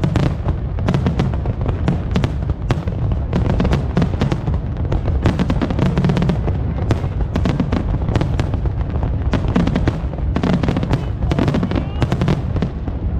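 Aerial fireworks bursting in rapid succession: many sharp pops and crackles close together over a continuous low rumble of booms.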